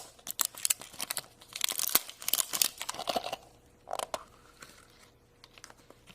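Surprise egg's wrapper being torn open and crinkled by hand: a run of crackles and rustles that dies down about four seconds in.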